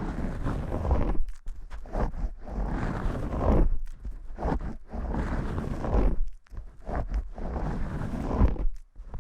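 Vigorous shampoo scrubbing: fingers rubbing hard through lathered hair in rough, rustling strokes, broken by a few short pauses.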